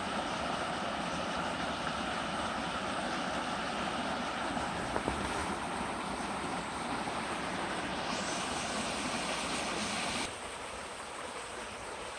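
Steady rush of a flowing valley stream. About ten seconds in, the low rumble drops away suddenly and the sound becomes quieter.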